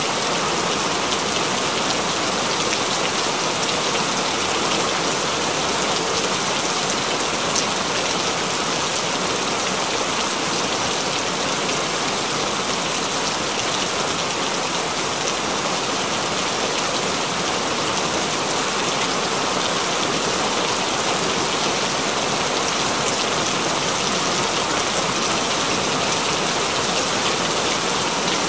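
Steady rain falling and splashing on hard surfaces, an even hiss that neither swells nor fades.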